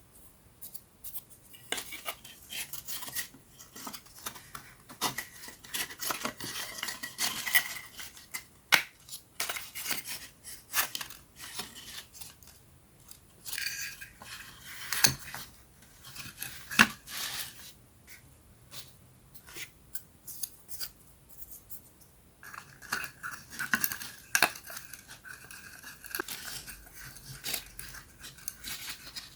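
Thin wooden puzzle pieces being handled and fitted together: irregular light clicks, taps and scraping.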